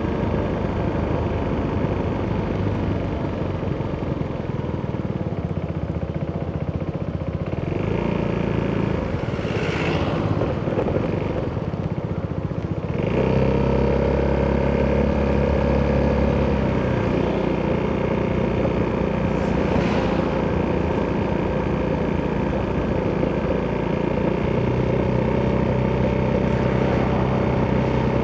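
Italjet Dragster 200's single-cylinder four-stroke engine running through an Akrapovic exhaust on the move. The engine note gets louder and steadier about halfway through, and there are two short rushing swells of noise, one before and one after.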